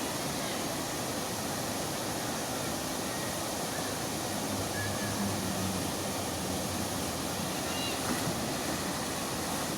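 Steady outdoor rushing noise, with a faint low hum about halfway through and a few short, faint high chirps near the end.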